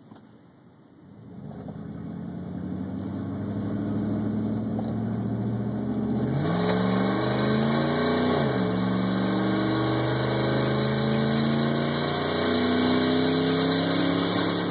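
Ram pickup's Hemi V8 accelerating hard at full throttle, loud, its exhaust essentially straight-piped from the header because the glass pack has separated, heard from the cab through the open back window. The engine note builds over the first few seconds and climbs, drops sharply in pitch at an upshift about eight seconds in, then climbs again.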